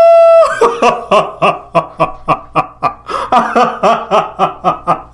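A woman laughing hard: it opens with a high squeal, then breaks into a long run of rhythmic laughs, about four a second.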